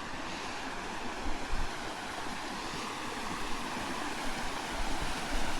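Steady rush of running water, with a few brief low thumps.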